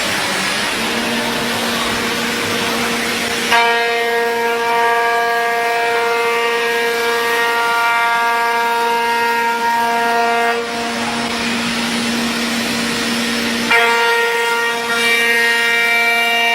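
CNC router spindle running and cutting wood. A noisy hiss gives way, about three and a half seconds in, to a steady whine with a clear pitch and many overtones. The whine shifts twice, about ten seconds in and again near the end, as the cut changes.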